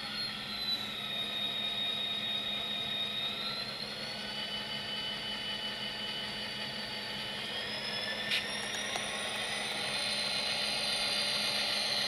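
Tsunami sound decoder in a model diesel locomotive playing a simulated EMD 645 diesel engine through the model's small speaker. The engine runs steadily with a high whine that dips in pitch and then rises again, with one short click about eight seconds in.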